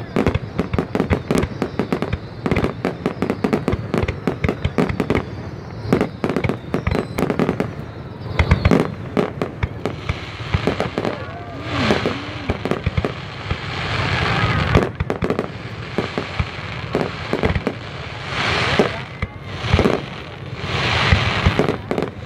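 Fireworks display: rapid, dense volleys of sharp bangs, changing about halfway to long, loud hissing bursts with scattered bangs among them.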